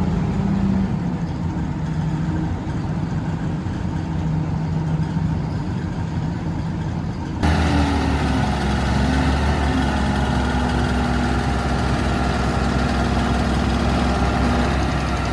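Heavy diesel machinery engine running steadily at low revs. About halfway through it jumps abruptly louder and fuller.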